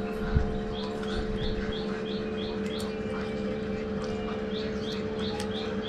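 A small bird chirping over and over in short runs of two or three high chirps, over a steady hum. Light clicks of eating come and go, with a dull thump about half a second in.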